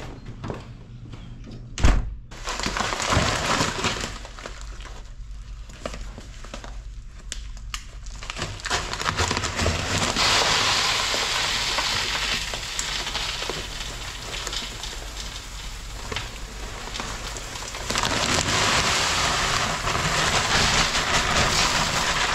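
Water-softener salt pellets pouring out of a bag into a brine tank: a rushing, rattling hiss in two long spells, after a single heavy thump about two seconds in.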